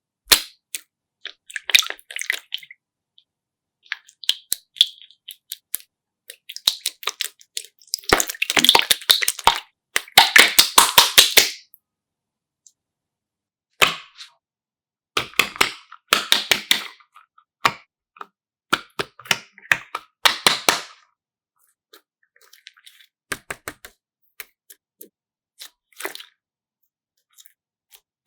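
Bursts of sharp crackling and clicking, with the densest runs about a third of the way in and again past the middle, and scattered single clicks between.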